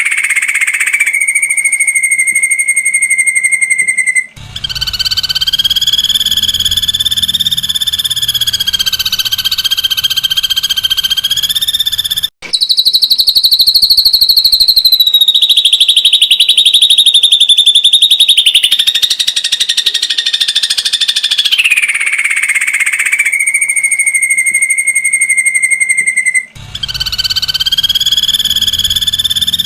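Ashy drongo giving long, rapid trilled calls ('tembakan rapat'), each held at a steady pitch and stepping higher or lower between phrases. Three brief gaps break the calling.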